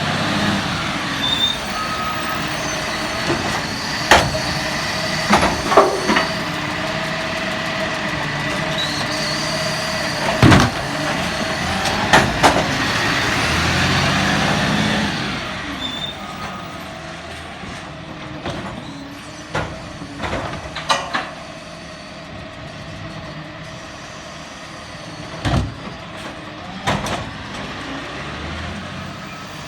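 Garbage truck running, with sharp knocks and bangs scattered throughout. About halfway the engine rises in pitch, then the sound drops to a quieter steady run, still broken by occasional clunks.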